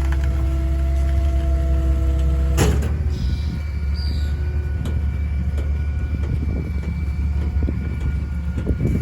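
Kenworth rear-loader garbage truck running with its Heil packer hydraulics whining steadily, while bulk trash is mixed and packed. There is a sharp bang about two and a half seconds in, after which the whine changes pitch and irregular cracks and knocks follow.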